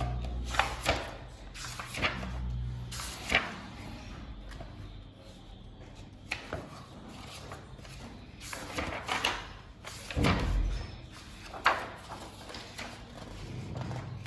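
A paper airplane tutorial book being handled and its pages turned: scattered short rustles and knocks, with a few duller thumps near the start and about ten seconds in.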